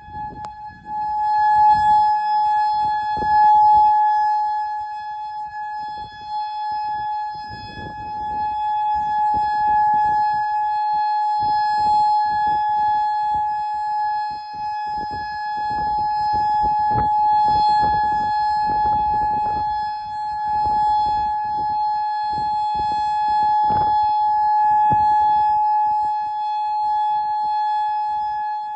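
Federal Signal Modulator electronic outdoor warning siren sounding a steady, unchanging tone, swelling and fading in loudness over several seconds, activated for a tornado warning.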